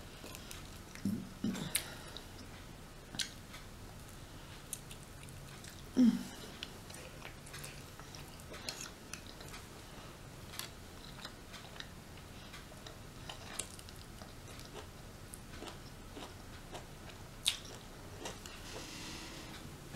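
Close-miked chewing and biting of rotisserie chicken: soft wet mouth clicks and smacks throughout, with a few short, louder sounds about a second in and again about six seconds in.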